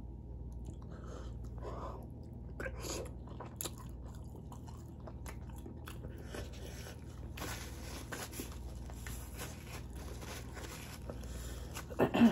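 Close-up chewing and biting of seafood boil food, with small wet mouth clicks and smacks. A brief louder sound comes at the very end.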